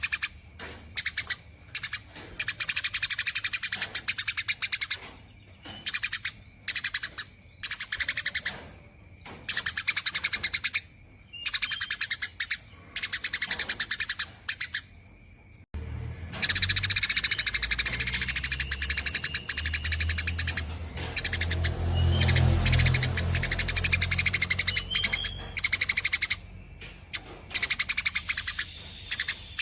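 Eurasian tree sparrow chattering in long runs of rapid, high chirps, broken by short pauses. About halfway in, a low rumble starts under the chirping and continues.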